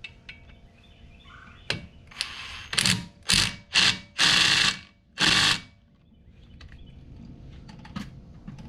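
Impact gun running in five short bursts, one near a second long, about three seconds in, driving in the brake rotor's T30 Torx retaining screw.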